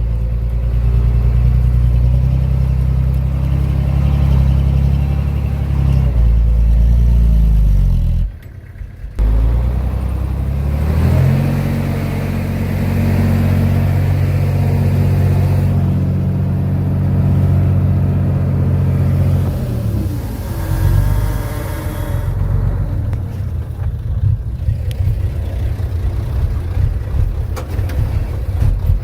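Bulldozer's diesel engine working under load, its revs rising and falling, with a brief drop-out about eight seconds in. The engine note holds steady for several seconds, falls away, and then turns rough and uneven near the end.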